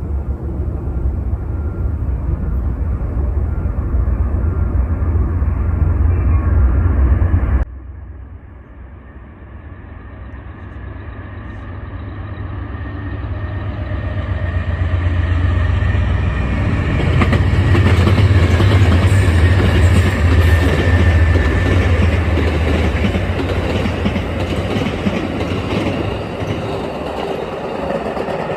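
Amtrak passenger train passing close by with a heavy low rumble that cuts off suddenly about eight seconds in. A second stretch follows: a train approaches, passes loudest about twenty seconds in with wheels clattering over the rail joints, and fades away.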